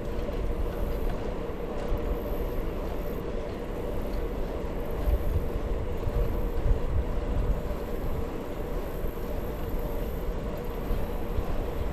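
Steady rumble of a bicycle ride: wind buffeting the camera microphone over the noise of the tyres rolling on the path, with uneven swells in the low rumble.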